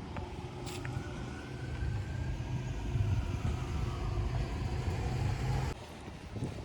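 A motor vehicle running, with a low rumble and a whine that rises and then falls in pitch; the sound drops off abruptly near the end.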